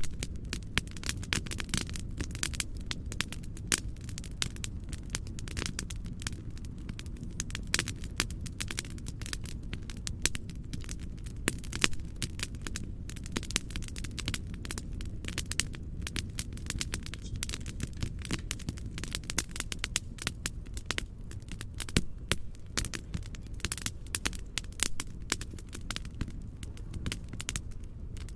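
Fireplace crackling: dense, irregular pops and snaps throughout, over a steady low rumbling noise bed.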